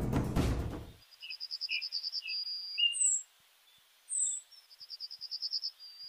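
Background music fades out in the first second, then birds sing: a quick trill twice, each ending in a short held note, with short chirps and downward-sliding whistles in between.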